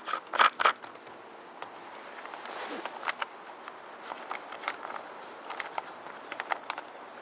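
Sharp clicks and light taps of hands handling the plastic housing and parts of a handheld leaf blower, irregular, with the two loudest clicks just under a second in.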